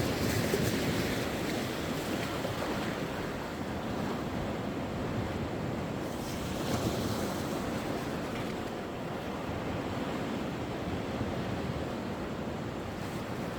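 Sea waves breaking and washing up the shore: a steady surf wash that swells about a second in and again around six seconds.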